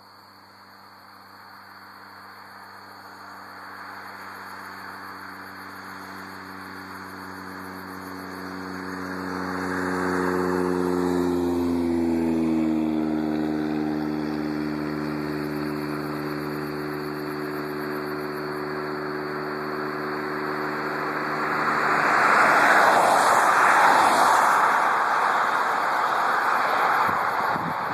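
A train approaching with its multi-note horn chord sounding. The horn's pitch drops as the train passes, then cuts off, and the loud rush and rumble of the passing train follows.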